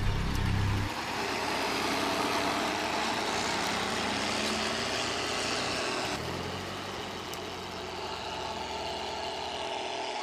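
An engine running steadily, which stops abruptly near the end.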